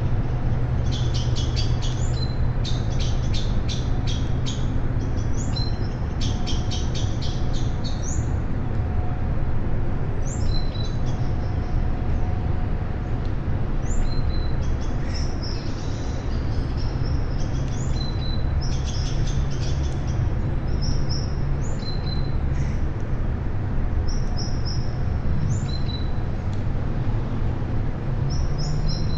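Several birds chirping and calling, with rapid chattering trills through the first several seconds, then separate short chirps and whistles. A steady low rumble runs underneath.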